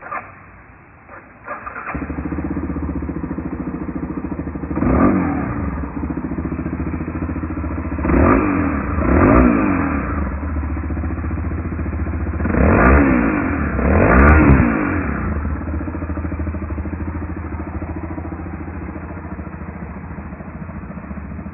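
Yamaha Serow 250's air-cooled single-cylinder engine, fitted with an aftermarket muffler, cranked and catching about two seconds in, then idling steadily with five quick throttle blips that rise and fall in pitch.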